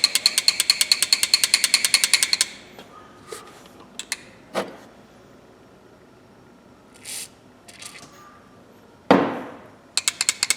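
Rusty pliers worked rapidly open and shut, the joint and jaws clicking about ten times a second with a squeaky ring as the stiff pivot is freed with penetrating oil and carburetor cleaner. The clicking stops after about two and a half seconds, leaving a few light knocks and a short rush of noise about nine seconds in, and it starts again just before the end.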